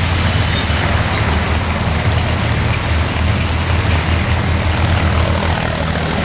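Heavy rain falling, under the steady low rumble of a vehicle engine running. A faint thin high whine comes and goes twice.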